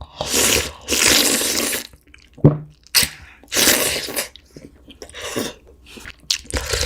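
A person slurping soup broth up close, in several long, hissy slurps separated by short pauses.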